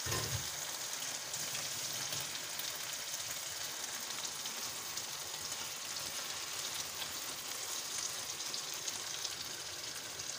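Chicken mince sizzling in hot oil with fried onions in a pan, a steady crackling hiss, just after the raw mince has gone in. A brief low knock at the very start, and a spatula moving in the pan now and then.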